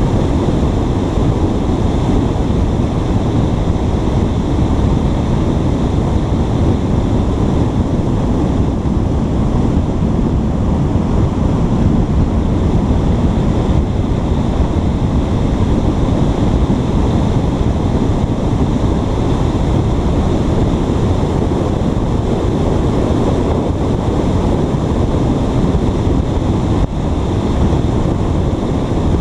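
Wind buffeting a GoPro microphone: a steady, loud low rumble with no breaks.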